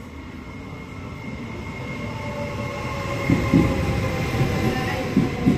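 A Trenitalia 'Pop' electric multiple unit approaching along the platform, growing steadily louder: a rumble of wheels on rail with a whine of several tones that slowly falls in pitch as the train slows. A few low thumps come in the second half as the coaches draw alongside.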